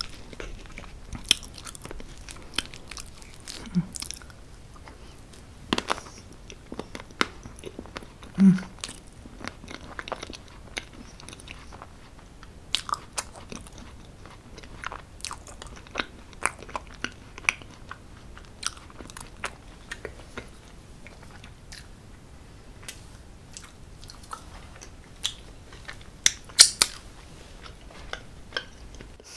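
Close-miked eating sounds: a person chewing, with frequent wet mouth clicks and smacks scattered irregularly through, a few of them much louder than the rest.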